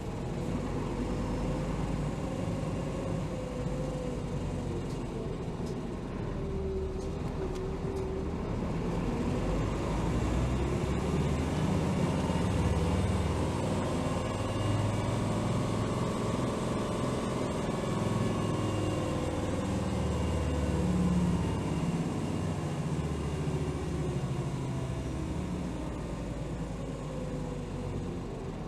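Running sound of a 2007 Hino Rainbow HR city bus (BDG-HR7JPBE), heard inside the cabin. The diesel engine rumbles steadily, and the drivetrain whine rises and falls several times as the bus speeds up and slows down.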